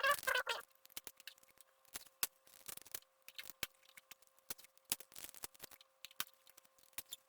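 Close-up handiwork on an RC airplane's covering while patching holes: irregular small clicks, snips and scratchy rustles of patch material and tools being handled.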